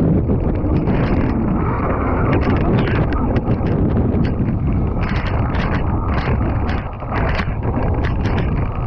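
Heavy wind buffeting on the microphone, mixed with the rattle and knocks of an electric dirt bike being ridden over rough ground, with no engine sound.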